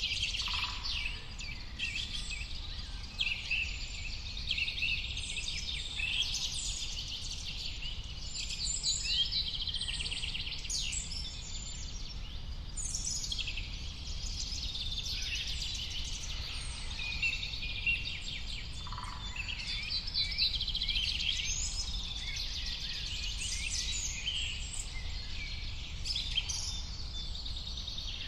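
Many birds chirping and singing at once, a dense, overlapping mix of quick trills and chirps, over a steady low background rumble.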